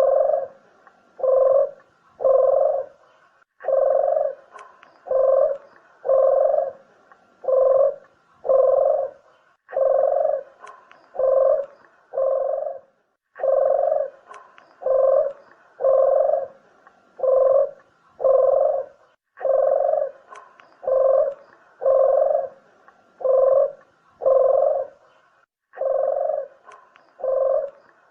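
Puter dove (collared dove) cooing over and over: low coos, about three every two seconds, in runs broken by short pauses, a recorded call of the kind used to lure doves for shooting or trapping.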